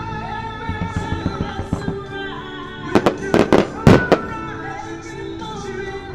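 Firework shells bursting over music with singing: a patter of small crackling pops about a second in, then five or six loud bangs in quick succession around three to four seconds in.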